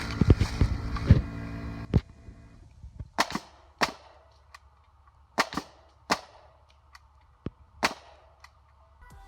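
Pneumatic framing nail gun firing 2.5-inch framing nails, a series of sharp cracks at uneven intervals.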